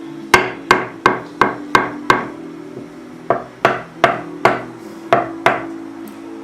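A spoon banged on a tabletop: twelve sharp knocks, six at about three a second, a short pause, then six more.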